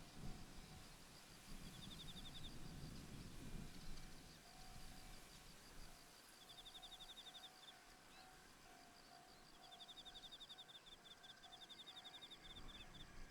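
Faint insects trilling: short bursts of rapid, evenly pulsed chirps that repeat every few seconds over a steady higher-pitched insect trill. A low wind rumble is heard in the first few seconds.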